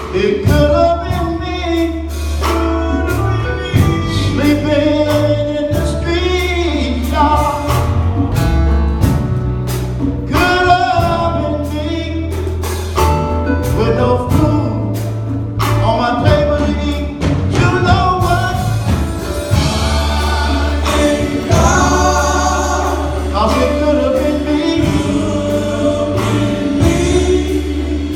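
Gospel music: a choir singing over a band, with a steady bass line and drums.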